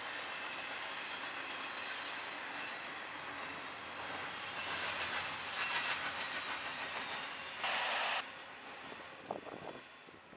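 Double-stack container train rolling past on well cars: a steady rumble and clatter of wheels on rail that swells as the last cars go by, with a short loud rush of noise about eight seconds in and a few sharp knocks just after, then fading as the train moves away.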